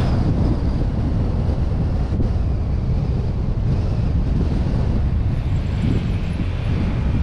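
Steady wind buffeting on the microphone of an action camera suction-mounted to a moving vehicle, with a low rumble of road and engine noise beneath it.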